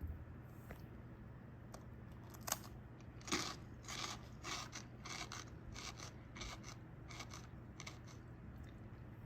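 Crunching on Jagarico crisp potato snack sticks: a single sharp click, then a quick run of crisp crunches, about two or three a second, that dies away near the end.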